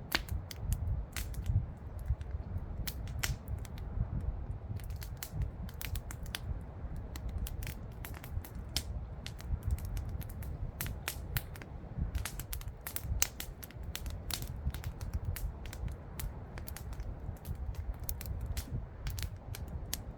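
Campfire burning wood, crackling with irregular sharp pops and snaps, several a second at times, over a steady low rumble.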